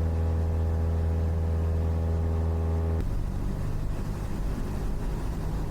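Cessna 172's piston engine running steadily, heard inside the cabin as a strong, even low hum. About three seconds in, the sound changes abruptly to a rougher, lower drone.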